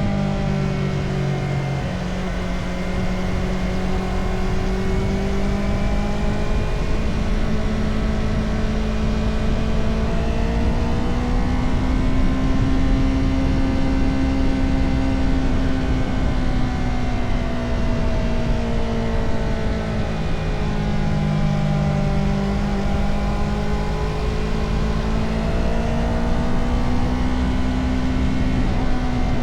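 Motorcycle engine running on the move, its pitch rising and falling smoothly as the rider opens and closes the throttle through curves, with a low rush of wind noise underneath.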